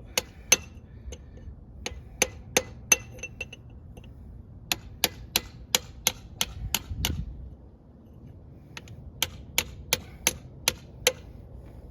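Hammer blows on steel, knocking a bent-over locking tab straight at the axle hub nut. Sharp ringing metallic strikes come in three quick runs of several blows each, with short pauses between them.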